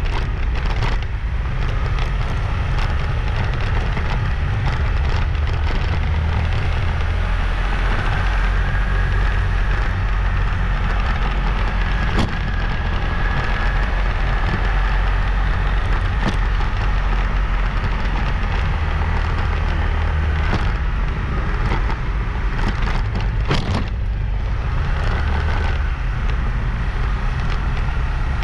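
Motorbike on the move: a steady heavy low rumble of wind on the microphone over engine and road noise, with a faint wavering whine and a few short clicks.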